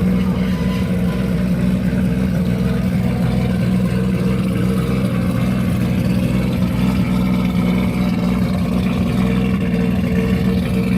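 Car engine running steadily at low, even revs, with no revving.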